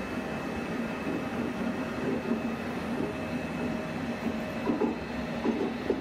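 DB Regio double-deck passenger coaches rolling slowly past: steady running noise with a faint hum, and several short clacks of wheels over the rails, most of them near the end.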